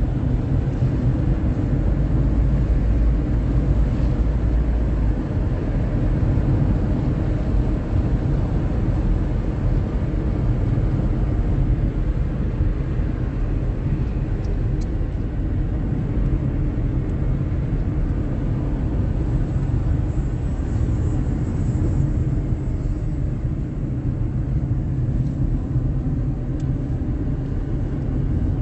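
Steady low rumble of a moving vehicle, like road and engine noise inside a car, holding an even level throughout.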